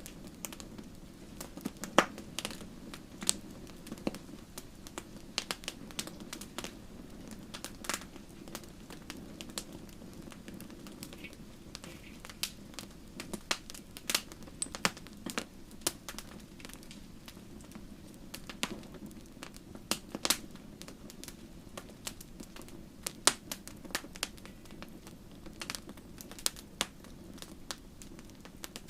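Wood fire crackling: irregular sharp pops and snaps, a few louder ones, over a steady low rumble of the burning fire.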